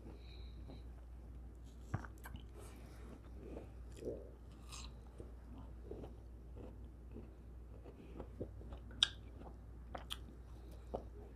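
Faint close-miked chewing of soft fruit, with scattered small wet mouth clicks; near the end a forkful of cantaloupe goes into the mouth.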